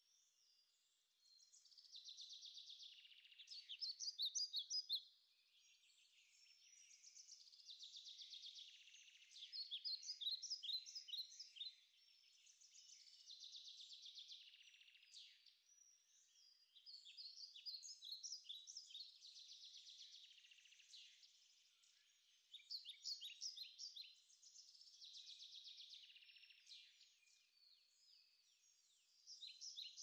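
Faint songbird singing one phrase over and over, about every five to six seconds: a buzzy stretch followed by a quick run of sharp, high notes.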